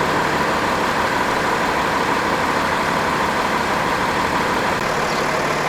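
Water truck running steadily: its engine idling under a constant rushing noise, with a faint steady high hum.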